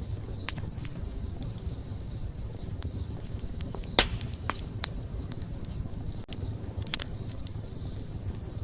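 Wood fire crackling: a steady low rumble of the flames with scattered sharp pops and snaps, the loudest about four seconds in.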